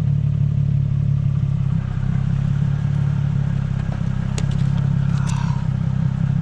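Nissan 350Z's 3.5-litre V6 engine running at steady revs, with a few light clicks about four and five seconds in.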